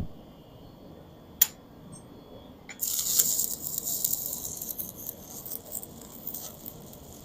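Stick-welding arc crackling and sizzling as a rod lays a bead. It is struck about three seconds in and fades over the following seconds. There is a thump at the start and a sharp click about a second and a half in.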